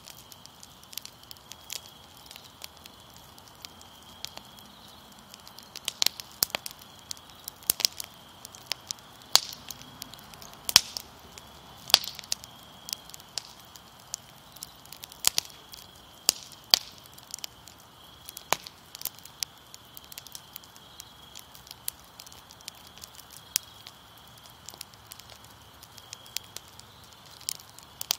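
Wood fire crackling, with irregular sharp pops and snaps, several of them louder than the rest.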